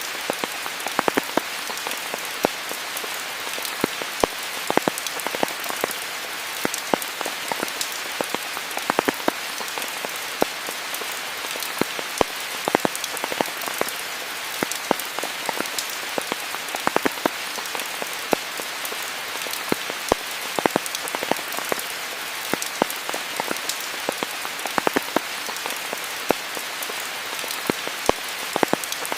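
Steady rain falling on a surface, an even hiss with many close, distinct drops ticking irregularly on top of it.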